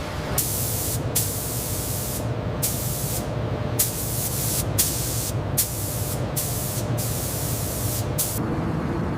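A series of sharp-edged hissing sprays, about eight bursts of uneven length, over a steady low machine hum on a factory line.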